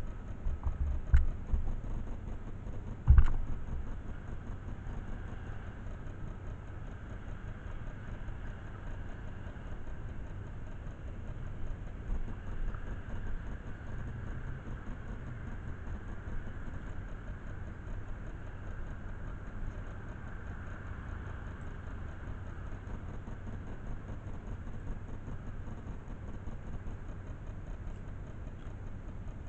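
Motorcycle engine idling steadily, with two sharp knocks about one and three seconds in.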